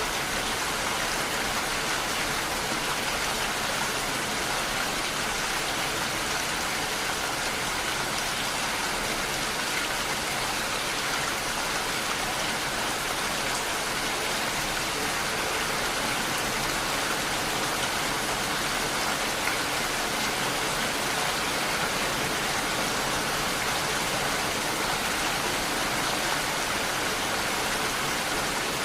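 Steady rain falling: an even hiss of many drops that holds at one level throughout.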